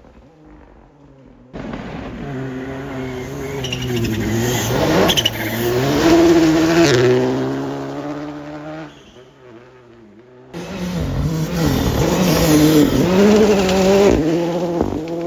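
Two rally cars driving past one after the other on a gravel forest stage. Each engine revs up and drops between gear changes, loudest as the car goes by.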